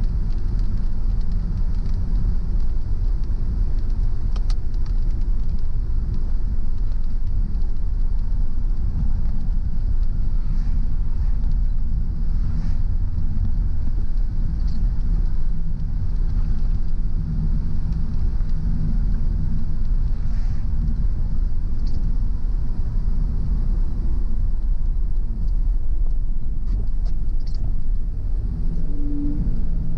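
Car driving along a road: a steady low rumble of engine and tyres, with a few faint ticks scattered through it.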